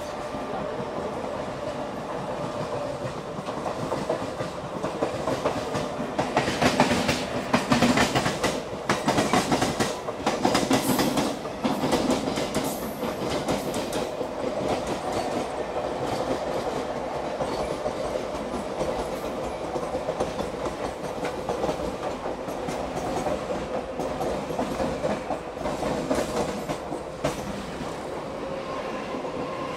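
ICF passenger coach running over the rails, its wheels clattering steadily in a clickety-clack. There is a louder, busier run of clatter from about six to thirteen seconds in.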